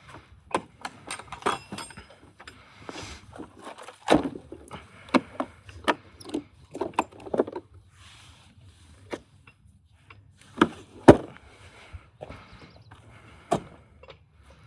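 Tools and metal parts being handled during car repair work: irregular clinks, taps and knocks, a few with a brief metallic ring, and a sharp knock about eleven seconds in.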